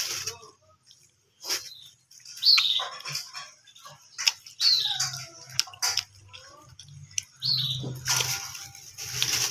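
A bird chirping: a short high chirp falling in pitch, repeated every two to three seconds, among small clicks from eating by hand.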